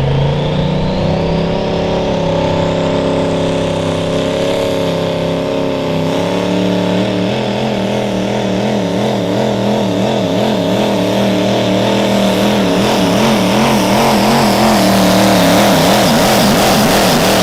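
Small diesel pickup truck engine at full throttle pulling a weight sled, its pitch stepping up at the start and then holding. From about halfway through, the engine note wavers quickly up and down as the truck bounces and its wheels hop, and a high whine climbs over the first few seconds.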